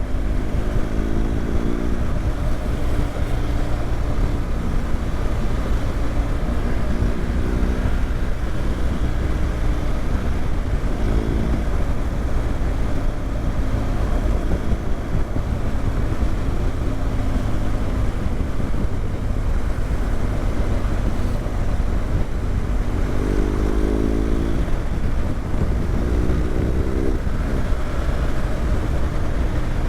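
BMW GS boxer-twin motorcycle engine under way, heard under heavy wind rumble on the microphone, its pitch rising several times as it accelerates through the gears.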